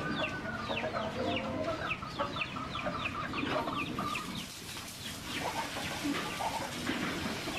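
Chickens clucking, with a quick run of short, high, falling chirps repeating about three times a second through the first four seconds or so.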